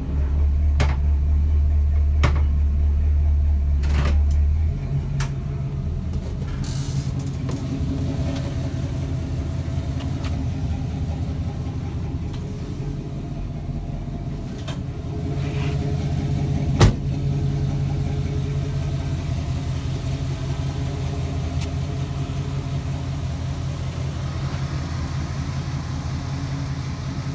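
Chevrolet 350 small-block V8 in a 1985 Jeep CJ-7 idling steadily, its deep rumble lessening about five seconds in. A few sharp clicks come early, and a single louder knock comes about two-thirds of the way through.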